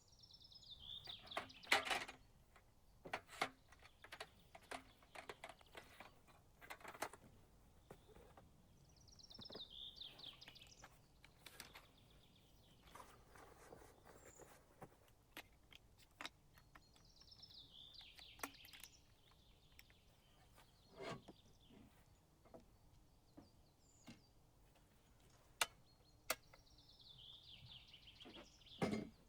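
A songbird singing a short phrase that falls in pitch, repeated about every nine seconds, with scattered sharp clicks and snaps between the songs.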